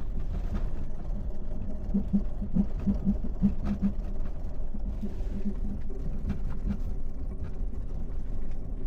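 Lexus engine running under throttle inside the cabin, with pulsing and clicking from about two seconds in, as the car tries to reverse out of snow and dug-in dirt. The traction control is cutting power as the wheels slip.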